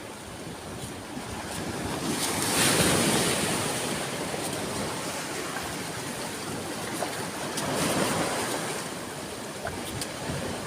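Ocean waves breaking and washing up a beach: a louder wave surges in a couple of seconds in and fades, then a softer one follows about five seconds later.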